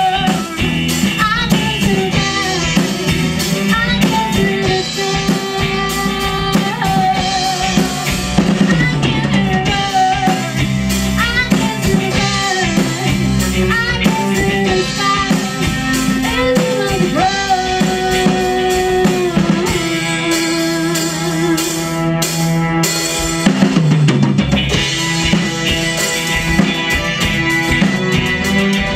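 A live rock band playing a song: drum kit with bass drum and rimshots under guitar and a wavering, sliding lead line.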